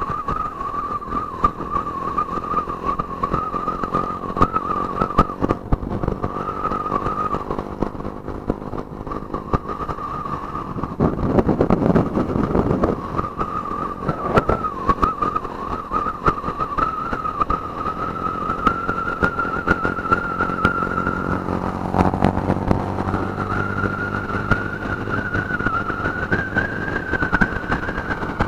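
Motorcycle engine running on the road, with a steady whine whose pitch wavers and rises over the last few seconds, and frequent short knocks and clicks.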